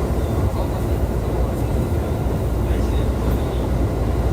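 Running noise heard inside a JR East E531 series electric multiple unit at speed: a steady rumble of wheels on rail with an even hiss.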